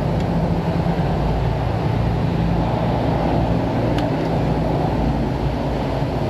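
Steady low machine hum and rush of background shop noise, with a faint click about four seconds in.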